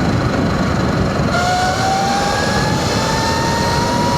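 Surron electric dirt bike riding over rough ground, with wind and road rumble on the microphone. About a second and a half in, the electric motor's whine starts and rises slowly in pitch as the bike picks up speed.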